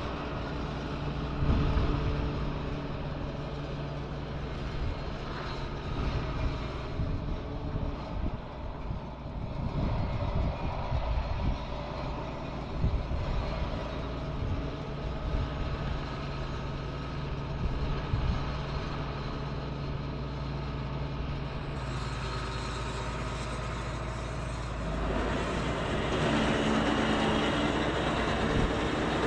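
Farm tractor's diesel engine running steadily under load, with machinery clatter over it. The sound grows louder about 25 seconds in.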